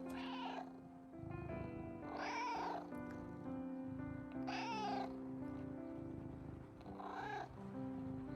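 A cat meowing four times, each call about half a second long and about two and a half seconds apart, over background music.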